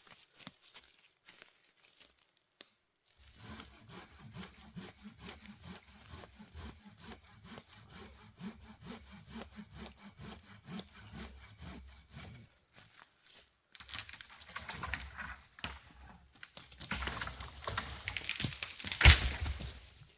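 Hand saw cutting through dead wood in steady back-and-forth strokes, about two a second, starting a few seconds in. After a brief pause the sawing resumes louder and rougher, with a single loud crack near the end.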